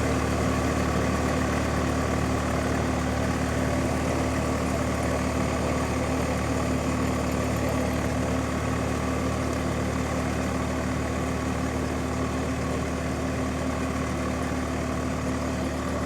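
A steady engine-like mechanical hum that holds one pitch, with no change in speed.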